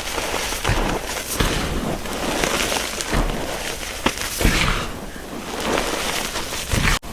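Chalk being crushed close to the microphone: continuous crunching and crumbling, with sharp cracks every second or so. It breaks off for an instant near the end.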